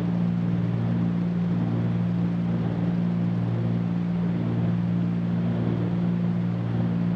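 Steady cockpit drone of a Cessna 310Q's twin piston engines and propellers in the climb, an even hum with a noise haze on top.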